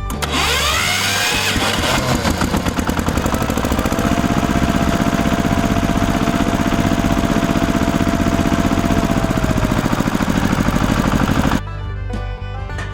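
A small motor starts and spins up over the first two seconds, then runs loud and steady with a fast even pulsing, and cuts off suddenly about a second before the end.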